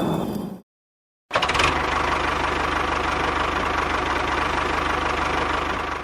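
An engine running steadily with a fine, even pulse. It cuts to dead silence for about half a second near the start, then carries on.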